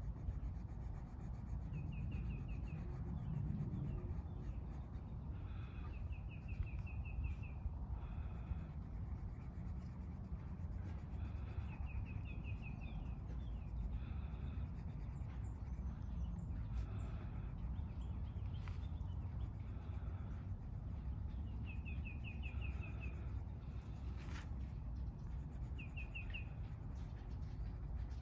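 Bird repeating a short, rapid trill of several quick notes every few seconds, over a steady low outdoor rumble.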